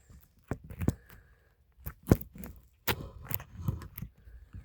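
Handling noise: scattered sharp knocks and thumps, with a short rustling stretch about three seconds in, as the recording phone is picked up and repositioned.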